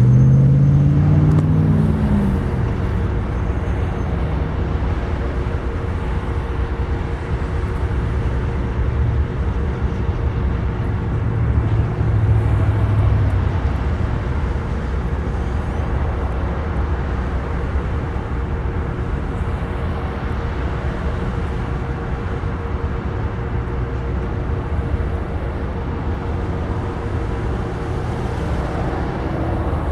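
BNSF freight train running with a steady low rumble and hum, and a rising engine tone in the first couple of seconds.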